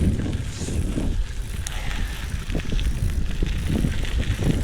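Bicycle riding fast along a trail: wind buffeting the microphone and a steady rumble of tyres on the trail surface, with frequent small clicks and rattles from the bike.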